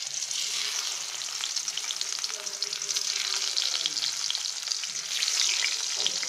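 Pumpkin slices frying in hot oil in a pan: a steady sizzle with frequent small crackles and pops as more slices are laid into the oil.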